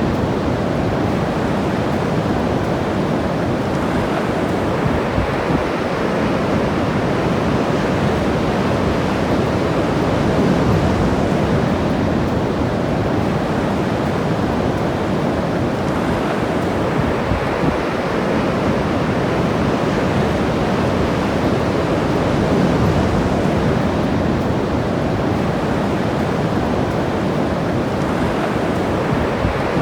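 Ocean waves washing on a beach in a continuous, steady rush, with some wind buffeting the microphone.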